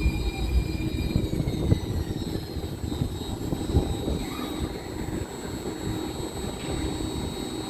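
Muni Metro light-rail car slowing to a stop: its low rumble drops away, and its motor whine falls in pitch over the first few seconds, leaving a steadier hum.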